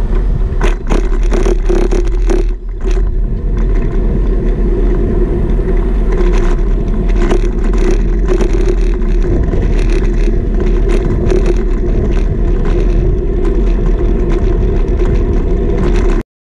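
Ride noise picked up by a GoPro mounted on a bicycle's stem: heavy wind buffeting on the camera microphone and road rumble under a steady hum, with quick rattles and knocks over bumps. It cuts off suddenly near the end.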